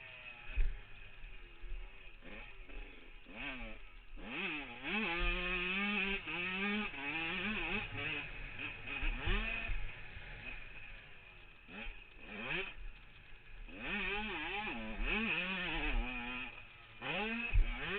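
Yamaha YZ125 two-stroke single-cylinder motocross bike being ridden, its engine revving up and dropping back over and over, with the pitch rising and falling with the throttle. It quietens for a few seconds midway, then revs hard again.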